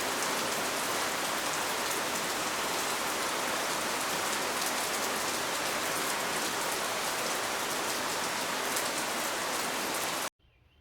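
Heavy rain pouring steadily, a dense hiss of countless drops hitting surfaces; it cuts off suddenly near the end.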